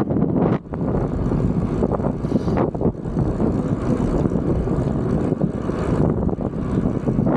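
Strong wind buffeting the microphone during a bike ride, a loud, steady rumble with a brief drop about half a second in.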